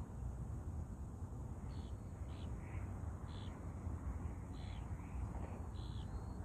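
Steady low outdoor rumble with a series of short, faint, high-pitched bird calls from about two seconds in, spaced half a second to a second apart.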